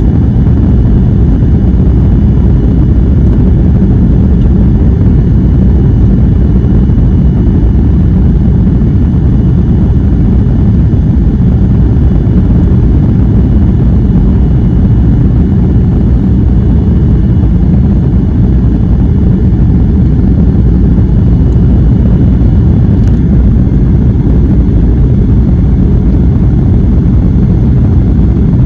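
Airliner cabin noise: the steady low rumble of the jet engines and airflow heard from inside the cabin, with a faint thin high tone running underneath.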